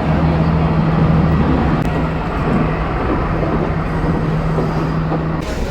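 Moving train heard from on board: a steady low diesel engine hum over rumbling running noise. The hum drops out near the end.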